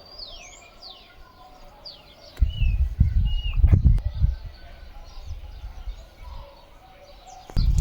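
Small birds chirping, with quick rising and falling chirps through the first half. A loud low rumble on the microphone comes in about two and a half seconds in, lasts over a second, and returns near the end.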